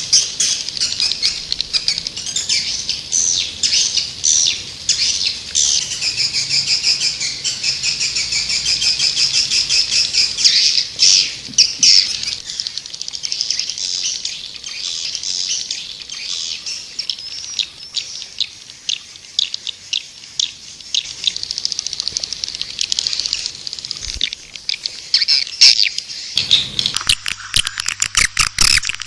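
Swiftlets twittering: a dense, continuous stream of rapid high-pitched chirps, played as a swiftlet lure call. The chirping changes abruptly near the end.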